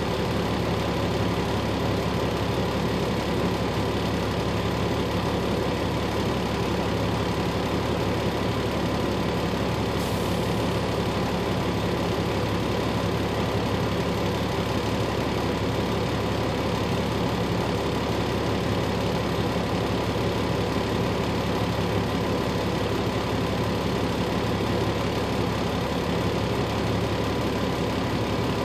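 Car engine idling steadily, a constant low hum with no change in speed.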